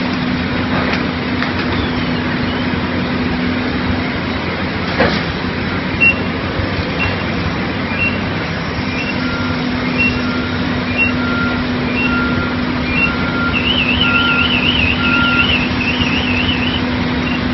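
Heavy equipment and fire-truck engines running steadily with a low hum, over a constant wash of noise. Back-up alarms beep about once a second from two machines at different pitches, and a higher warbling alarm sounds for a few seconds near the end.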